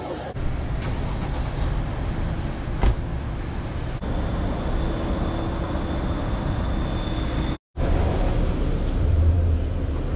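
Car driving, with a steady rumble of road and engine noise, heard in short clips with abrupt cuts between them.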